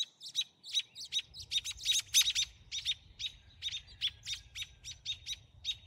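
Parent songbirds giving a rapid run of sharp, repeated chirps, about four or five a second: agitated calling while guarding their grounded fledgling.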